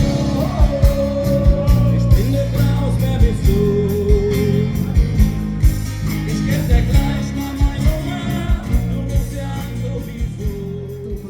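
Live band playing a German pop-rock song: a steady drum beat under guitar, with a sung vocal line.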